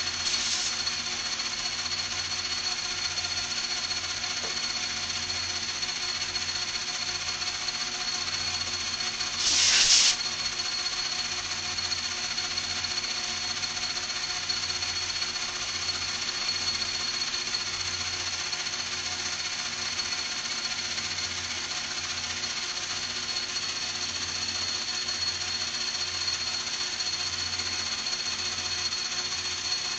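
A metalworking machine tool running steadily with a constant high whine and a slow pulsing hum, with a short loud hiss about ten seconds in.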